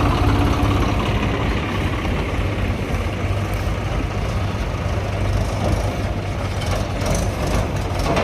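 Heavy diesel engine running steadily with a deep rumble, a little louder in the first second.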